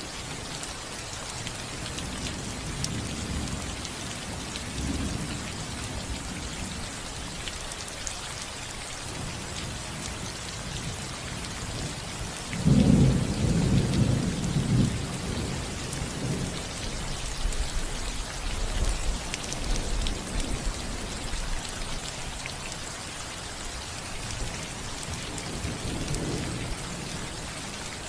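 Steady rain falling on a house roof, a constant hiss with scattered drop ticks. About halfway through, a roll of thunder breaks in suddenly as the loudest sound, then rumbles on more quietly for several seconds.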